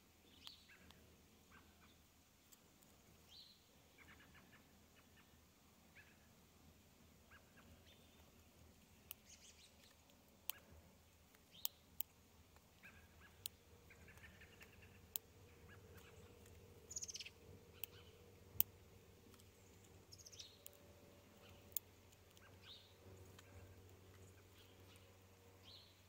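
Spotted towhee pecking at seed: irregular sharp clicks of its beak on the seeds, with short faint bird chirps in the background.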